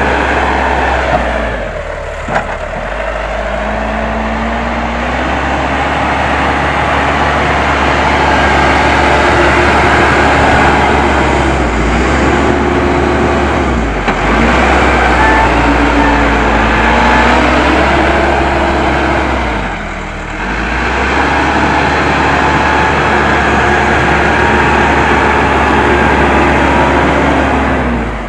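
Case 580M backhoe loader's four-cylinder diesel engine running under load, its pitch swinging as the machine works, with a short drop in revs a few times.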